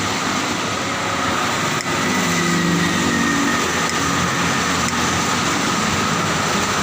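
Steady road traffic noise in the rain, with a vehicle engine coming up briefly about two to three seconds in.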